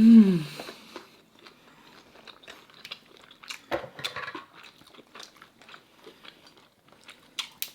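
Close-up mukbang eating: wet chewing and biting with small crunches and clicks from eating seafood and broccoli, in scattered bursts. It opens with a short, falling hummed "mmm" of enjoyment from one of the eaters.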